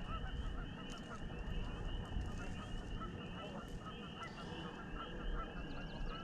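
A steady chorus of rapidly repeated animal calls, high and continuous, with wind rumbling on the microphone underneath.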